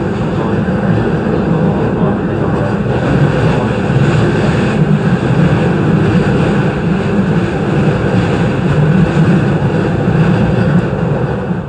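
A JR East E233 series electric train running along the line, heard from inside the front car: a steady, loud rumble of wheels and running gear on the rails.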